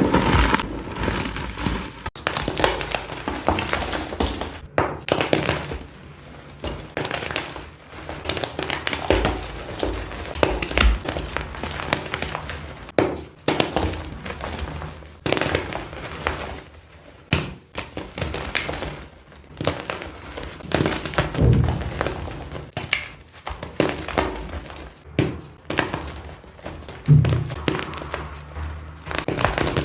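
Reformed blocks of dyed gym chalk being crushed and crumbled by hand: a run of irregular crunches, one after another.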